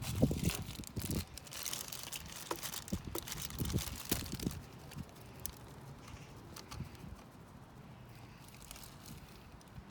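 Scattered light clicks, knocks and crinkling handling noises with a faint hiss, busiest over the first few seconds and then thinning out.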